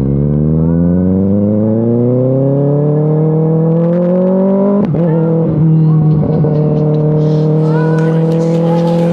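Sport motorcycle engine pulling steadily up through the revs for about five seconds. Its pitch dips briefly at a gear change, then holds steady as the bike cruises.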